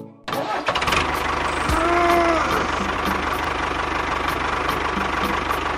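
Small engine starting up abruptly and then running steadily at idle, with an even, rapid pulsing. About two seconds in, a brief tone rises and falls over it.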